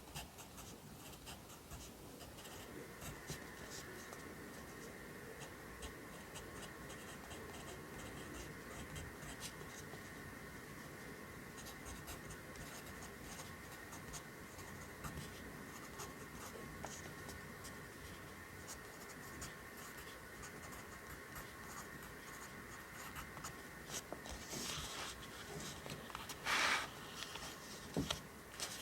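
Pencil writing Korean characters on paper: a run of quick short strokes and light taps of the point, with a louder scrape of about half a second near the end. A faint steady hum comes in about two seconds in.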